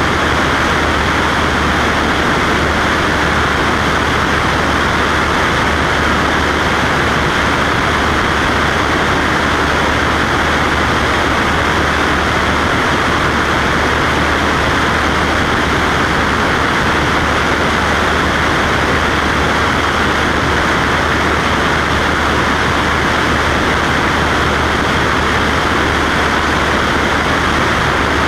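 Cessna Skywagon's piston engine and propeller running steadily in flight, a constant low hum under a broad rushing noise with no change in pitch or level.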